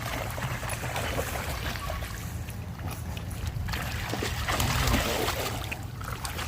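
Puppies play-fighting roughly: scuffling, with scattered clicks over a steady low rumble and hiss.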